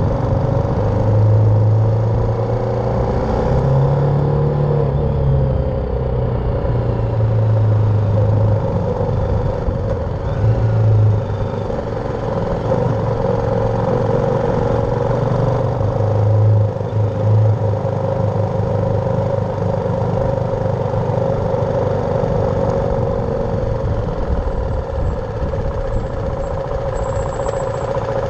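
BMW G310R's single-cylinder engine running under way, its note rising and falling as the revs change, over a steady hiss of wind and road noise.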